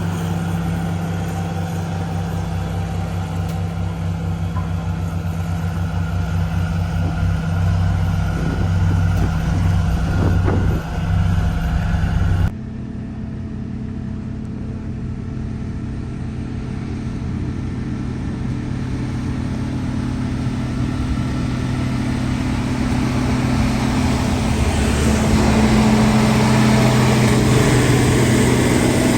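Heavy road-construction machinery's diesel engine running steadily. About twelve seconds in the sound cuts abruptly to a different engine note, which grows gradually louder toward the end.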